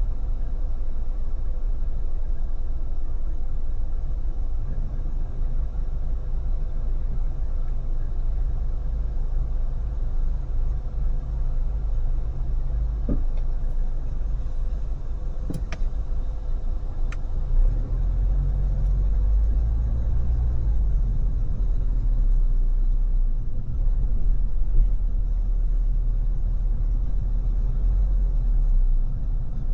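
Car driving on a freeway: steady low rumble of tyre and road noise with a faint steady hum. A few light clicks come in the middle, and the rumble gets a little heavier in the last third.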